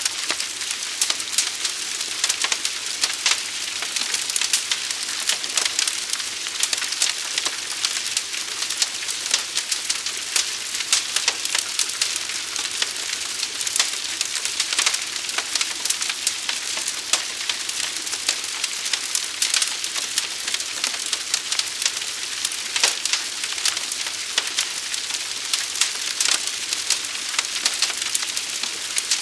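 Fire burning: a steady hiss thick with crackles, with occasional sharper pops.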